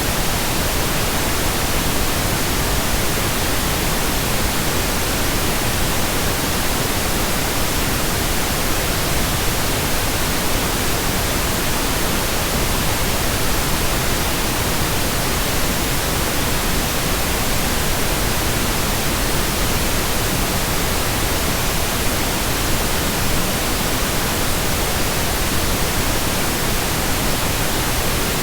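Steady, unchanging pink noise: an even hiss spread across the whole range with no tones or events.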